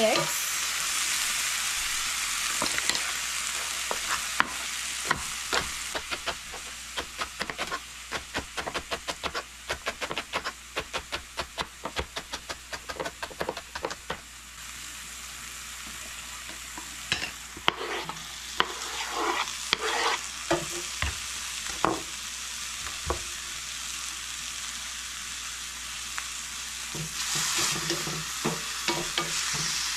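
Diced peppers and onions frying in garlic oil in a pan, sizzling steadily. From about four to fourteen seconds in, there is a fast run of sharp taps, about three a second, and a few louder knocks come later.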